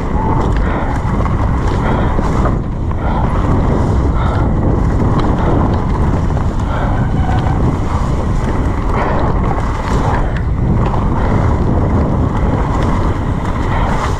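Wind buffeting the microphone over the steady rattle of an electric mountain bike riding down a wet, muddy trail, with frequent knocks from bumps.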